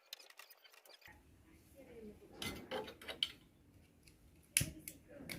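Scattered small clicks and taps, like metal items being handled, with a sharper knock about four and a half seconds in.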